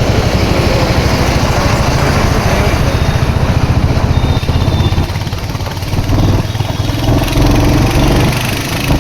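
Royal Enfield Hunter 350's single-cylinder engine running, with a fast, pulsing exhaust beat. About five seconds in it eases off, turning quieter and steadier.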